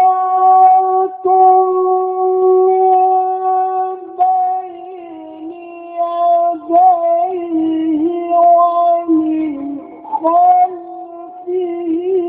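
Quran recitation in the mujawwad style: one high male voice holds a long steady note for the first few seconds, then turns into ornamented, wavering melodic runs broken by short pauses for breath.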